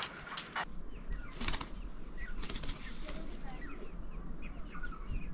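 Birds chirping in many short, quick, falling calls. A few brief rustling flutters, like wing flaps, come in the first three seconds.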